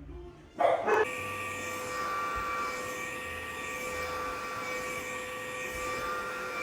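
Cordless stick vacuum cleaner switched on about a second in, then running steadily with a high-pitched motor whine over a rush of suction air as it vacuums a rug.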